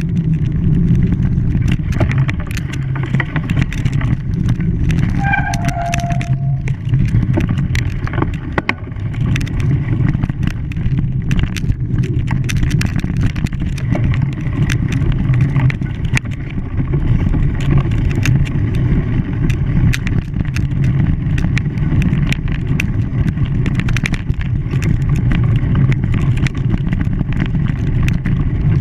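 An engine running steadily, a continuous low drone with many small clicks and knocks over it, and a short squeal about five to six seconds in.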